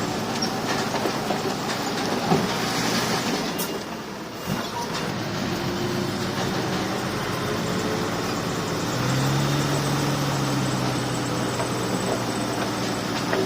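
Crawler bulldozer's diesel engine running under load, with steel tracks clanking and rattling. The engine note grows stronger about nine seconds in.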